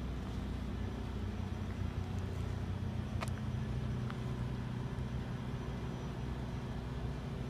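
Train of passenger coaches and boxcars rolling slowly past on the rails: a steady low rumble and hum, with a few faint clicks, one sharper about three seconds in.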